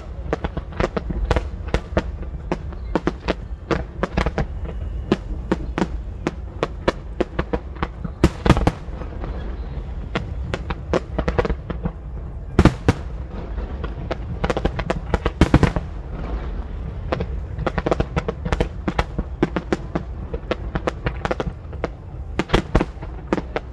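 Fireworks display with shells bursting in rapid succession, several sharp bangs and crackles a second over a continuous deep rumble. The heaviest volleys come about 8, 12 and 15 seconds in.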